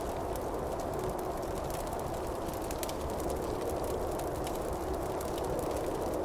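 Wood campfire burning: a steady rush of flames with scattered sharp crackles and pops from the burning wood.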